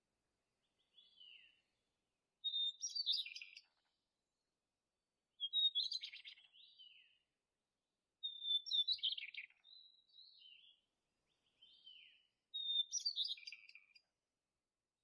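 A songbird singing short high-pitched phrases, each opening with a clear note and breaking into a quick warbled jumble. Four loud phrases come a few seconds apart, with softer snatches between them.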